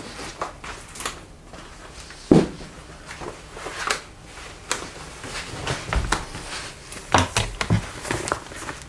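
Irregular knocks, clicks and light clatter of objects being handled and set down in a small room, with a louder knock a little over two seconds in.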